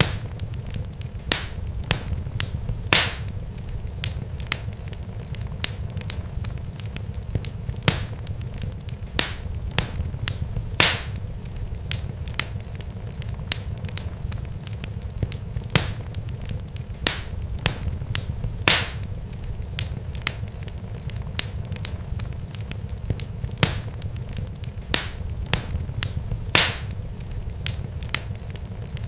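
Irregular sharp pops and crackles, several a second with a louder pop every few seconds, over a steady low rumble.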